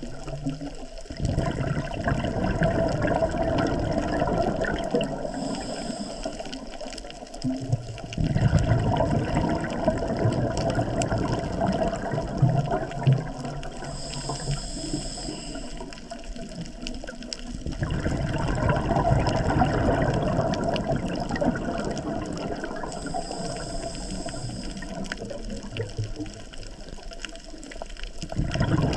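Scuba diver breathing through a regulator underwater: each exhale sends out a few seconds of loud, rumbling bubbles, and each inhale through the regulator brings a quieter spell with a thin high hiss. The cycle comes round about three times.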